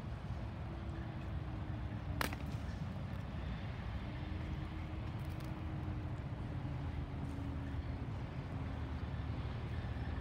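Double-stack intermodal freight train rolling past: a steady rumble of steel wheels on the rails with a faint hum over it. There is one sharp clank about two seconds in.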